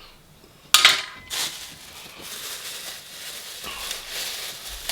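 Cutlery and takeaway containers being handled while eating: a sharp clatter about a second in, a second knock shortly after, then steady scraping and rustling.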